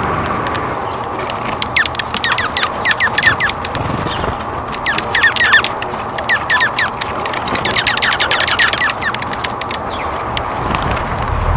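Small birds chirping, with quick runs of short, falling notes that come in several bursts.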